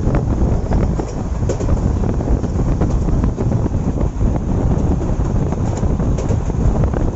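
A moving train's passenger coach running along the track with a steady rumble, and heavy wind buffeting the microphone. A few faint ticks sound over the rumble.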